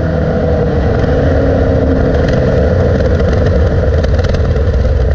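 GM LS small-block V8 swapped into a BMW E36, running loud with a rough, steady drone. Light clattering ticks come in from about two seconds in.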